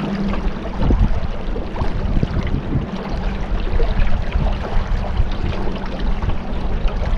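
Small boat under way on a river: its motor runs with a steady hum while water splashes and rushes along the hull, with wind buffeting the microphone.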